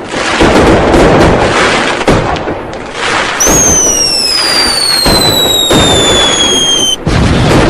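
New Year firecrackers and fireworks going off in a dense, continuous barrage of bangs and crackling. Partway through comes a long whistle falling in pitch, which cuts off suddenly about seven seconds in.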